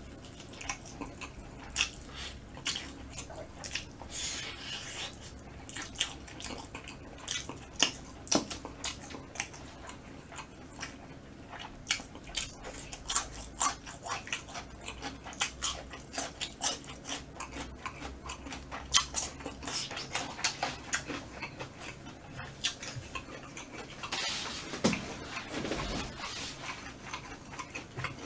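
Close-miked chewing of smoked chicken meat: a steady, irregular run of wet mouth clicks and smacks, with a longer hiss near the end.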